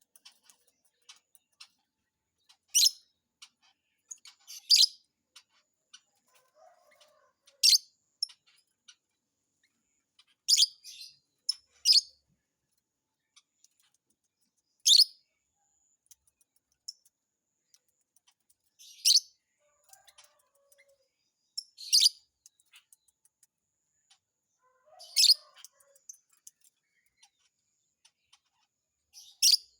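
Lovebird giving short, sharp, high-pitched chirps, about ten in all, spaced a few seconds apart, with faint small ticks in between.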